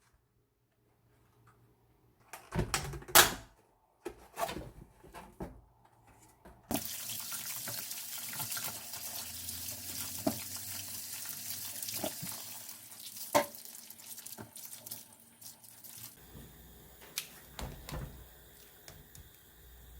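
Tap water running into a sink for about nine seconds, starting about seven seconds in and cutting off around sixteen seconds, with sharp knocks and clatter of things being handled before and during it.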